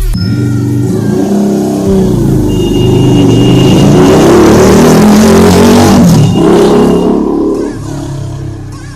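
Superbike engine revving and accelerating, its pitch rising and falling, loudest in the middle and dying away over the last second or so.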